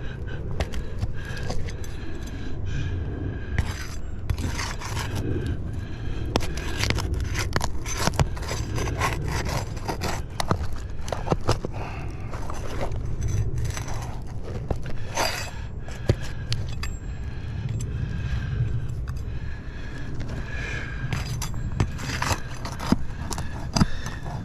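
Asphalt shingles and a hand tool scraping and clicking as a roofer works a shingle loose and at its nails during a roof repair, in many short irregular strokes over a steady low rumble.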